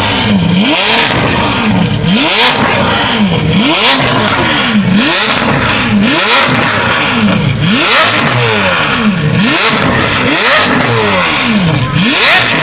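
Car engine revved hard again and again, about nine times, each rev climbing and falling in pitch roughly every second and a half, very loud at close range.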